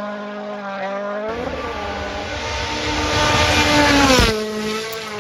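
Car engine sound effect running at a steady pitch, with its pitch sliding about a second in and again near the end.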